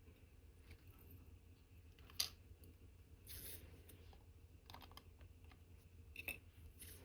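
Faint clicks and taps of watchmaker's tools on small watch parts during assembly of a movement, with one sharper click about two seconds in and a brief rustle near the middle.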